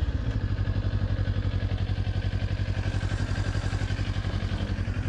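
Motorcycle engine idling with a steady, even pulse.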